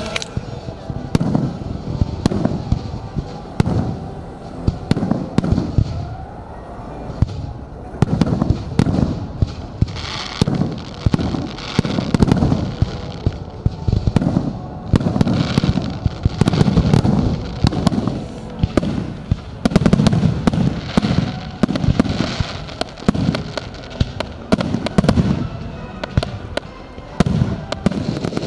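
Fireworks display going off: many sharp bangs and crackles in quick succession, with deeper booms among them.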